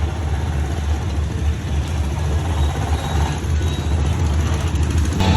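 Small motorbike engine running, with wind rumbling on the microphone.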